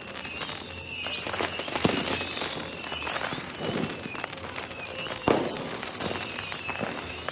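Fireworks going off in a dense run of bangs and crackling pops, with a sharp, loud bang about five seconds in. Short high whistling tones come and go among the explosions.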